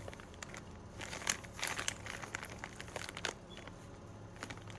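Plastic packaging being handled and crinkled, in irregular short crackles, as nail-tip bags are sorted during an unboxing. A faint steady hum lies underneath.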